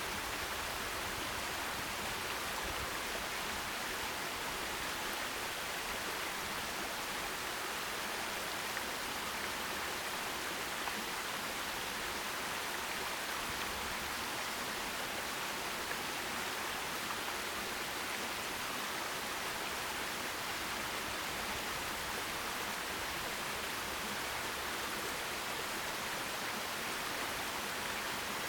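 Forest stream: water rushing and splashing over rocks, a steady even hiss with no breaks.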